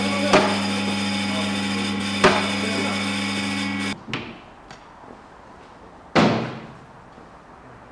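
A steady mechanical hum with a few sharp knocks over it, cutting off suddenly about halfway through. Then a single loud bang, like a door or panel slamming.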